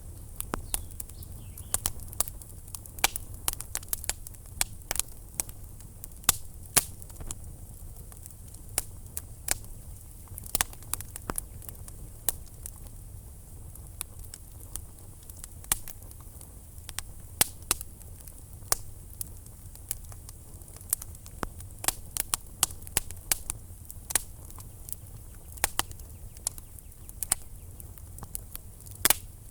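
Wood fire burning in a fireplace, crackling with irregular sharp pops and snaps, several a second, over a steady low rumble of the flames.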